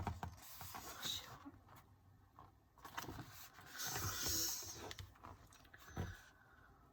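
Pages of an album photobook being turned and handled: bursts of paper rustling just after the start and again for about a second and a half midway, with a short sharp tap about six seconds in.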